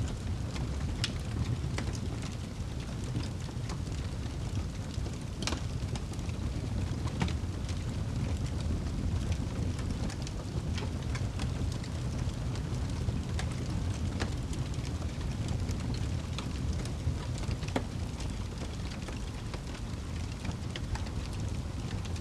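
Wood fire crackling, with sharp pops scattered every few seconds over a steady low rumble.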